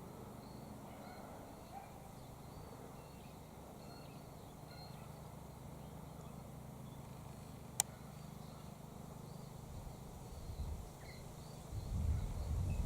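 Faint, scattered chirps of small birds over a steady low hum. A single sharp click comes about eight seconds in, and a low rumble starts near the end.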